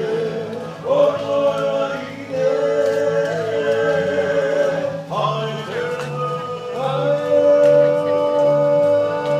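A group of Maori performers singing together in long held notes that slide up into each new phrase, over a steady low rhythmic pulse.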